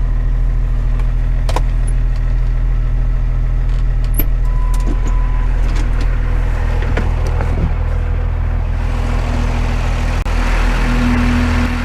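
Truck engine running steadily, with a few scattered clicks and knocks; the engine noise grows louder about three-quarters of the way through.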